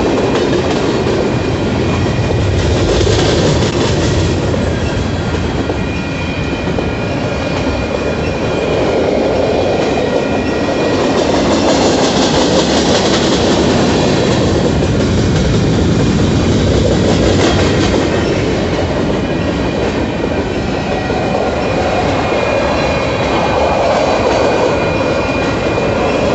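Freight train of covered hopper cars rolling past, a steady loud rumble of steel wheels on rail with clickety-clack over the joints that swells and fades as the cars go by. A thin, high, steady squeal runs through it at times.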